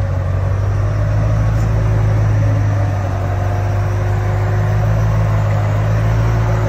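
Supercharged BMW E90 M3's S65 V8 engine idling steadily, a loud, even low hum.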